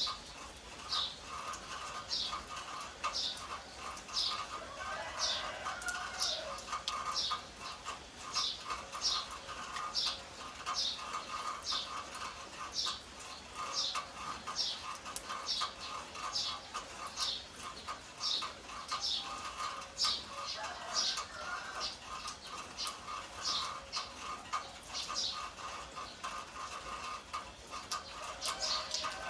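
A bird repeating a short high downward chirp about every two-thirds of a second, over a steady fast-pulsing trill, with a few lower calls twice along the way.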